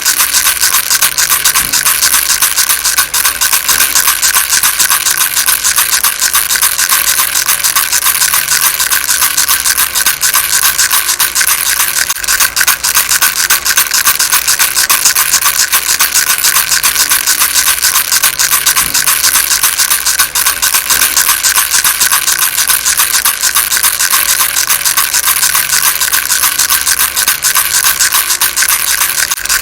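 Baby rattle shaken continuously: a loud, steady, hissy rattle of dense rapid strokes with no break.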